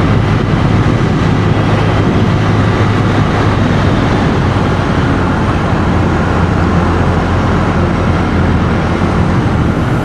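Honda CB125F's single-cylinder four-stroke engine running steadily while riding, under a constant rush of wind and road noise.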